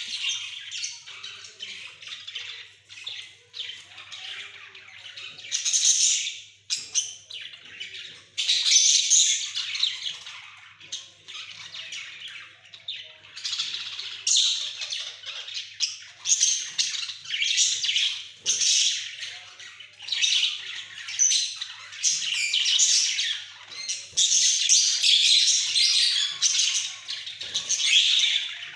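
Several pet budgerigars chattering and squawking in dense, high-pitched, irregular bursts with hardly a pause.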